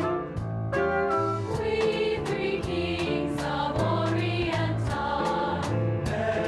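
A choir singing with instrumental accompaniment, with a steady beat.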